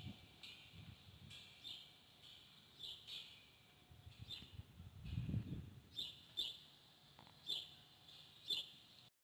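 Small birds chirping: scattered short, high chirps, a few of them in quick pairs, with a low rumble swelling briefly about five seconds in.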